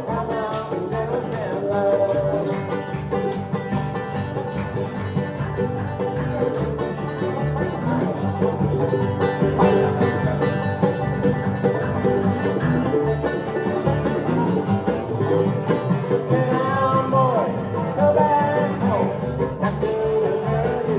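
Live bluegrass band playing an instrumental passage: banjo and guitar over a steady bass beat.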